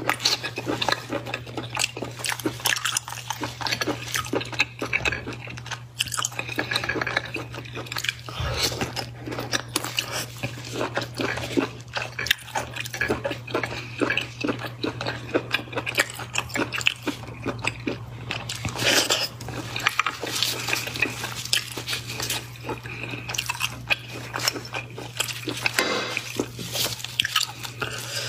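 Close-miked wet chewing and mouth sounds of cooked abalone being eaten, a dense run of small wet clicks and smacks, with a steady low hum underneath.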